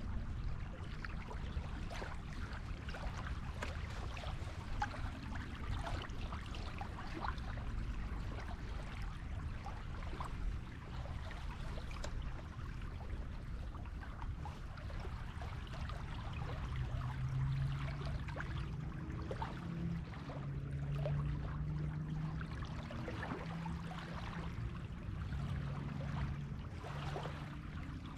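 Waves washing on a beach: a steady wash of surf with a fine crackle of fizzing water. From about halfway through, a low hum joins in, shifting pitch in steps.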